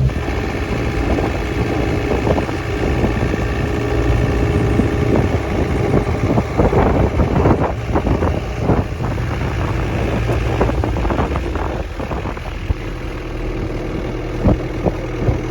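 Tour boat's engine running with a steady hum, with irregular gusts of wind buffeting the microphone, strongest around the middle.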